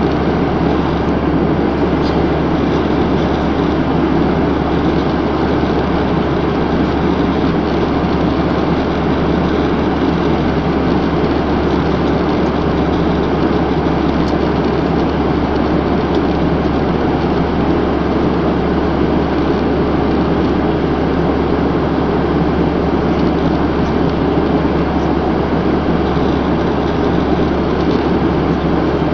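Steady aircraft cabin noise in flight: an even, loud engine and air rumble that does not change.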